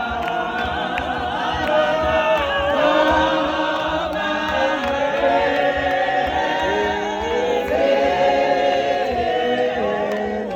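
A group of voices singing together in harmony, a choir-like chant with held, overlapping notes.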